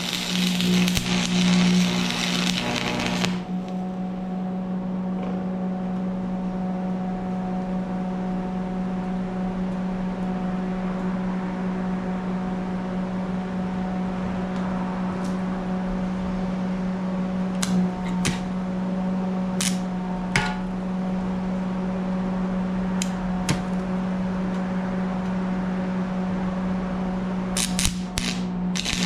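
Arc welding crackle for the first three seconds, stopping suddenly. Then a steady low hum with a handful of sharp clicks and taps, before the welding crackle starts again near the end.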